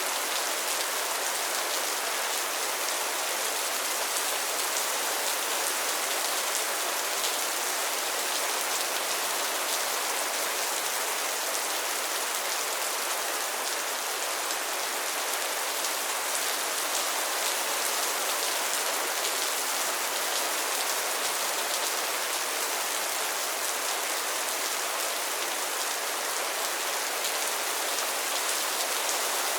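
Steady rain falling on a pond and its lily pads, an even hiss of many fine drops with no single louder event.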